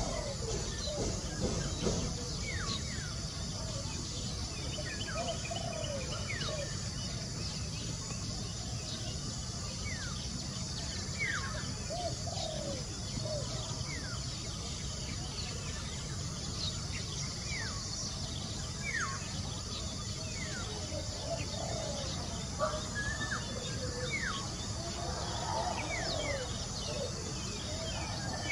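Wild birds calling from the trees: many short, sharply falling whistled notes, with some lower, arched notes in between, over a steady high hiss and a low rumble.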